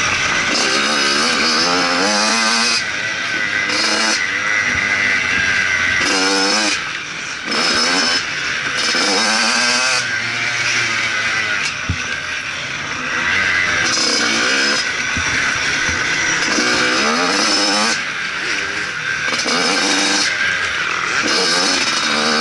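Motocross motorcycle engine revving hard, its pitch rising and falling over and over as the throttle opens and closes, over a steady rushing noise.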